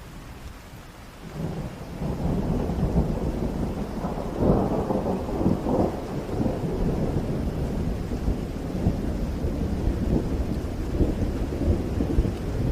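Heavy rain with a long roll of thunder that swells in about a second in, is loudest around four to five seconds in, and keeps rumbling low.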